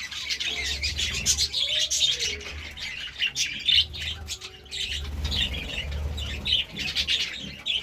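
Several budgerigars chirping and chattering in quick, overlapping high calls, over a low steady hum.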